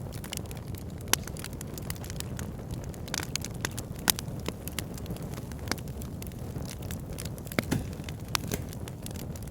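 Fire pit fire crackling: irregular sharp pops and snaps over a steady low rumble of flames, with louder pops about a second in and about four seconds in.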